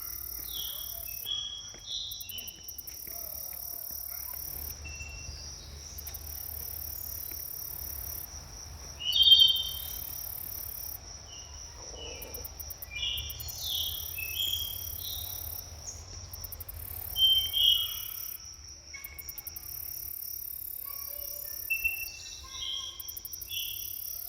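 Forest birds singing in short phrases of quick descending whistled notes, loudest about nine seconds and seventeen seconds in, over a steady high chirring of insects.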